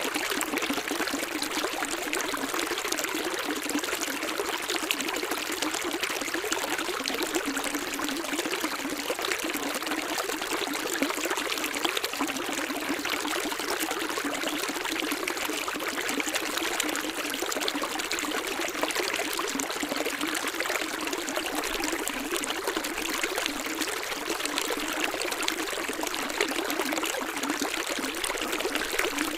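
Running water flowing steadily: an even, unbroken rushing hiss with almost no low rumble.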